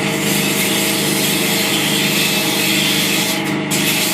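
Abrasive paper hissing against a spinning oak workpiece on a wood lathe, over the lathe motor's steady hum. Near the end the sanding hiss breaks off briefly and comes back.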